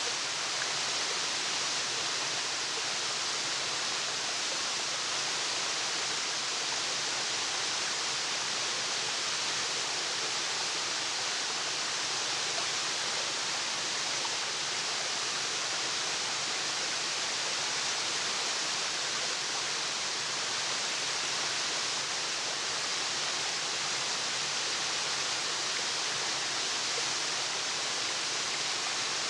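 Waterfall: a steady, even rush of falling water, brightest in the upper range, with no change or break.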